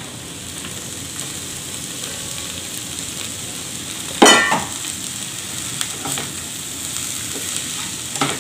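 Sliced okra and onions sizzling steadily as they fry in a frying pan. A single sharp clatter comes about four seconds in, and near the end a spatula stirs the vegetables with a few light knocks against the pan.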